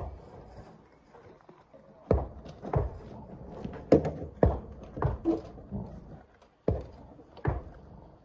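Rocks knocking heavily against rock or metal as they are broken and loaded, about nine sharp thuds at uneven intervals.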